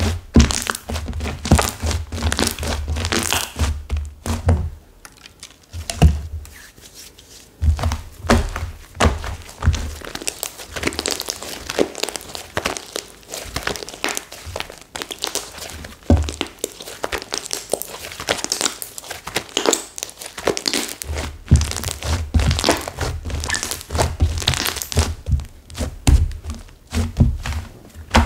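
Stiff, over-set clay slime being squeezed and pressed by hand: dense crackling and tearing with low thunks. The crackle comes from the clay in it having hardened. The sound eases off for a couple of seconds near the quarter mark, then resumes.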